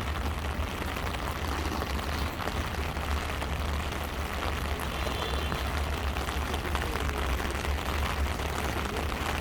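Heavy rain falling steadily on an umbrella held overhead, an even hiss, over a constant low rumble.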